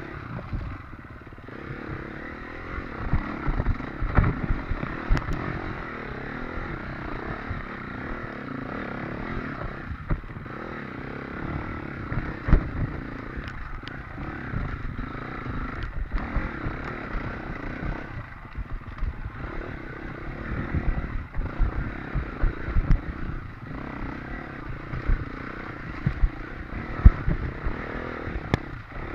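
Off-road dirt bike engine running and revving hard, with frequent short knocks and clatter from the bike riding over rough ground.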